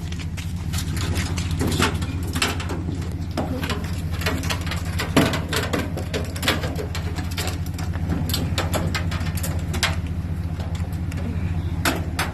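Vehicle engine idling, a steady low hum, with scattered clicks and knocks over it.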